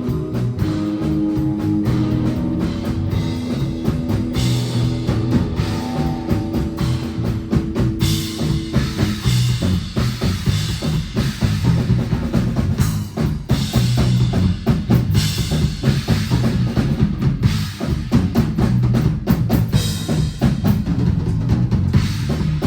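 Live rock band playing an instrumental passage with no vocals. Held guitar and bass notes ring over the drum kit, and from about nine seconds in the drums take over with busy kick, snare and cymbal hits.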